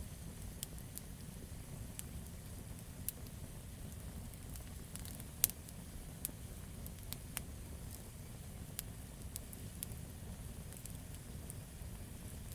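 Campfire wood crackling: scattered sharp pops, the loudest about five and a half seconds in, over a steady low rumble.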